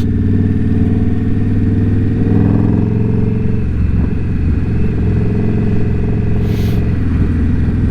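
Indian Scout Bobber's V-twin engine running steadily at cruising speed, swelling slightly a couple of seconds in. There is a short rush of hiss about six and a half seconds in.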